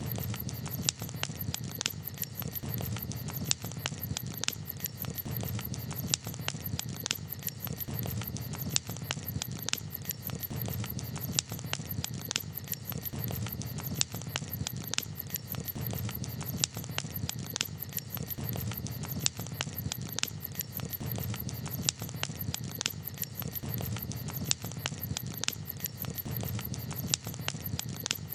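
Campfire crackling: frequent irregular sharp pops and snaps over a steady low rush.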